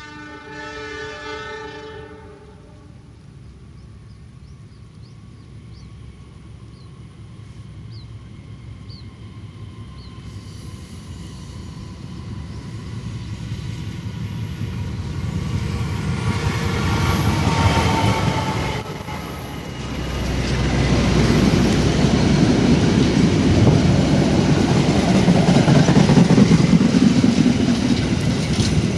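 Passenger train sounding its horn once for about two seconds, then approaching and running past, its rumble and wheel noise growing steadily louder and loudest in the last third. A thin high whine rises over the rumble as it nears.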